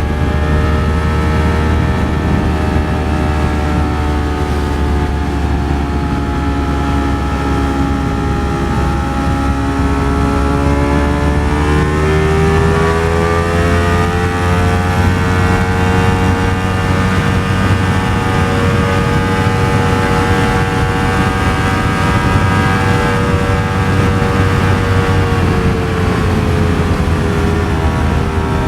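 Ducati Streetfighter V4 S's V4 engine running at cruising speed, heard over heavy wind rumble on the onboard microphone. The engine note climbs steadily through the middle as the bike picks up speed, holds, then drops a little near the end.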